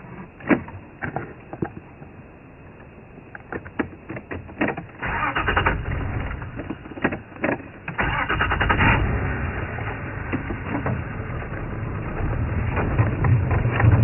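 Elephants browsing a bush: twigs and branches snapping in sharp single cracks, with two longer bursts of crackling and rustling as branches are pulled and broken. A low vehicle engine rumble comes in about halfway.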